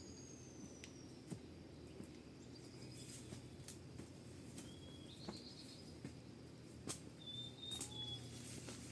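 Faint outdoor ambience with a few thin bird calls: a high whistle sliding down at the start and short chirps around the middle and near the end. A few sharp clicks or taps are scattered in between.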